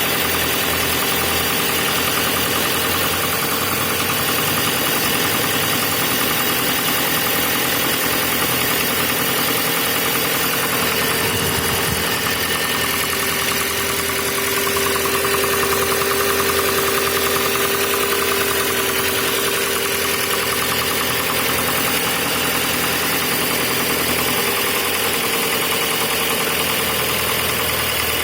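Volkswagen Passat B5 engine idling cold with a knocking that runs steadily under the engine note. A faint whine swells a little around the middle.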